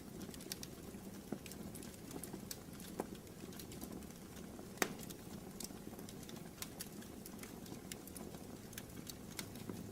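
Fire in a fireplace crackling: irregular small pops over a steady low rush, with one sharper pop about five seconds in.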